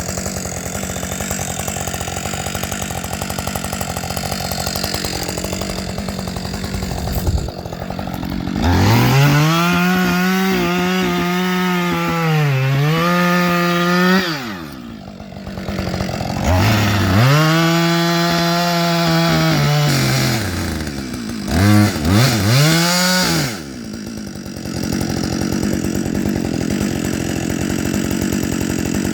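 Husqvarna 555 two-stroke chainsaw engine running, opened up to full throttle twice for several seconds each, with the pitch rising, holding high, sagging briefly and falling back, then two quick blips of the throttle near the end.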